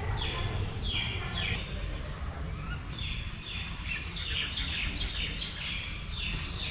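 Birds calling over and over, short notes that slide down in pitch, roughly two a second and sometimes overlapping. A steady low rumble runs underneath.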